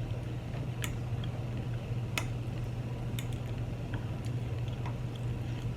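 Eating at close range: four or five light, sharp clicks spread over the few seconds, over a steady low hum.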